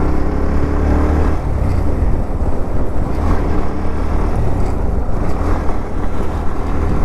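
Motorcycle engine running on the move, with a steady low rumble and road noise.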